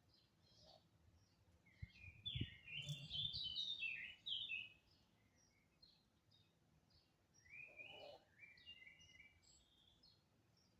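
Small birds chirping, with a louder run of twittering phrases about two seconds in and another shorter one near the end, and a few low thumps during the first run.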